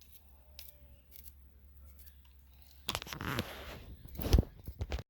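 Hand food-preparation noises: rustling and scraping starting about three seconds in, then a sharp knock a little past four seconds in. A low steady hum runs underneath.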